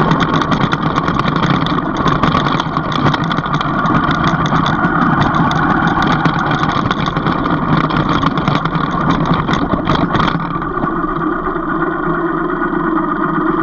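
A motor vehicle's engine running steadily, with frequent short knocks and rattles over it. About ten seconds in, the engine note drops and smooths out.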